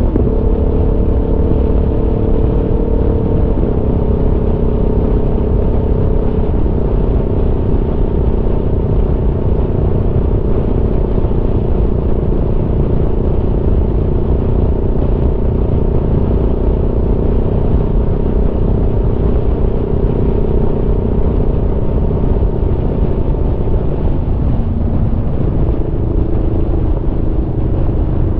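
Aprilia Tuono V4's V4 engine running steadily while riding, with wind rush. The engine note drops in steps a few seconds in, again a few seconds later and once more near the end.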